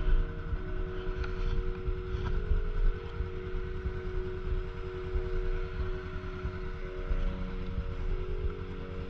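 Motorcycle engine running at a steady cruise, with wind rumble on the onboard microphone.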